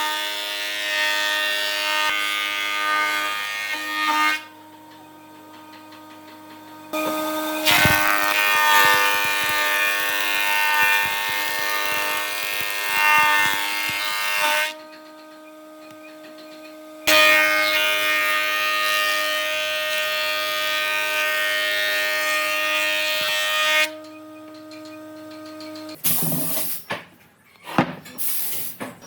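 An electric power tool running in three long bursts of several seconds each, a steady whine with hiss that switches on and off abruptly, followed by a few short bursts near the end.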